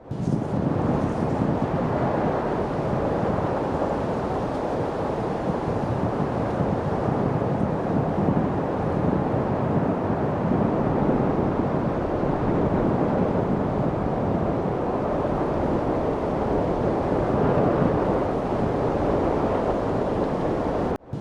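Steady rushing wind noise with no distinct events, the level dipping sharply for a moment at the very start and again just before the end.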